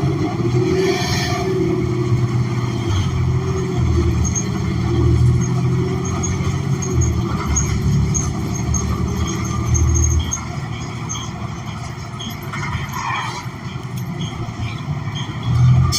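Ride noise of a New Flyer XN40 CNG city bus under way: its Cummins Westport ISL G engine and drivetrain running with a steady low rumble. It eases off about ten seconds in and builds again near the end.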